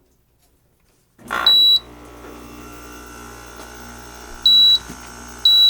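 Danby 50-pint dehumidifier switching on about a second in: its compressor starts a steady hum, stuck on with the fan not running, which the owner puts down to a faulty relay on the control board. Over the hum the unit gives three short, loud, high beeps, its alert that the water bucket is not in.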